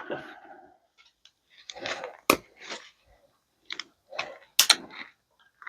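Handling noise from taking apart microwave parts: a few separate clicks and knocks of small parts being moved and set down, the sharpest about two seconds in and again near five seconds in.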